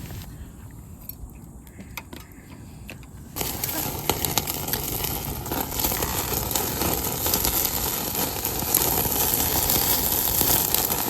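Food frying on a hot cooking surface: a few small clicks, then a sizzle that starts suddenly about three seconds in and keeps going, growing slightly louder.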